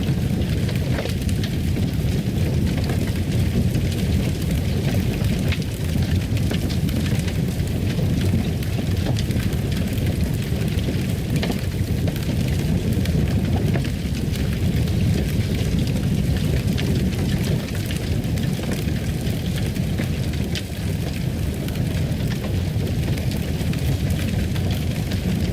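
Fireplace crackling: a steady low rumble of the fire with scattered small pops and snaps.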